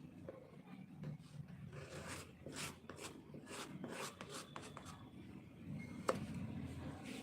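Irregular scratchy strokes of a pen or colour on paper, as a card is drawn on and coloured, with a sharp tap about six seconds in.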